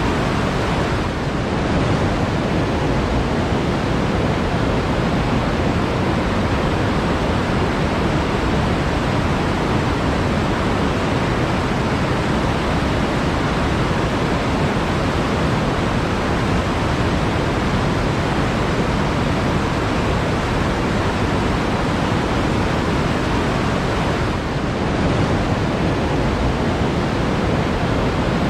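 Flowing water rushing steadily, a continuous full-bodied noise with no separate splashes or pauses.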